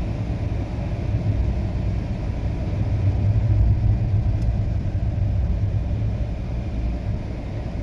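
Car on the move: a steady low engine and road rumble, swelling slightly about halfway through.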